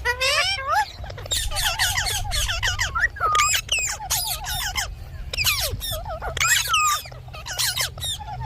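Indian ringneck parakeet giving a rapid run of squawks and chattering calls, each call sliding up or down in pitch.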